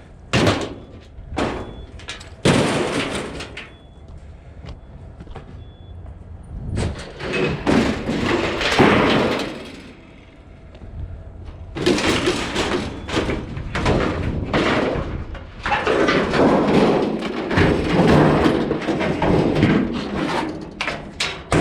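Sheet metal of a clothes dryer being pulled apart for scrap: a few sharp knocks at first, then long stretches of scraping and rattling metal from about halfway in.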